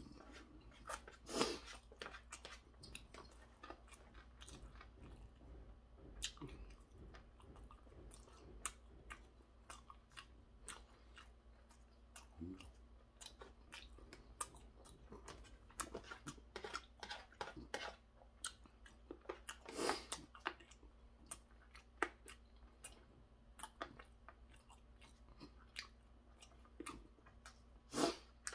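A person chewing crunchy stir-fried pork cartilage: many short crunching and chewing clicks, with a few louder ones about a second and a half in, around twenty seconds in and near the end.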